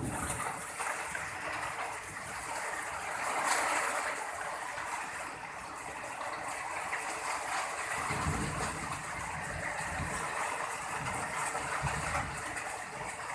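Heavy rain pouring steadily in a thunderstorm. A low rumble joins about two-thirds of the way through.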